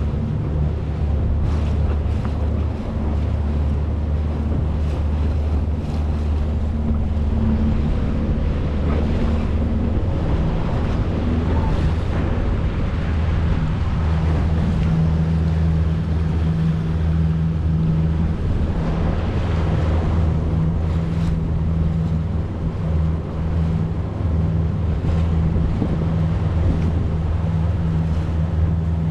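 A small boat's outboard motor running steadily at cruising speed, a low hum whose note shifts slightly about halfway through, with wind on the microphone and water rushing past the hull.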